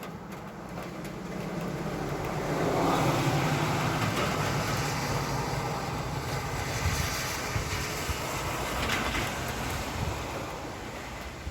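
A motor vehicle driving past on a wet road: engine rumble and tyre hiss on the wet surface build over the first few seconds, hold, and fade away near the end.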